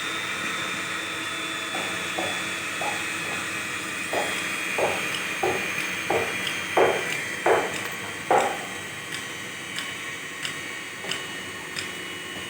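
A power tool's motor whining steadily at a high pitch while something is struck in an even rhythm, about three blows every two seconds. The blows are loudest around the middle and grow fainter toward the end.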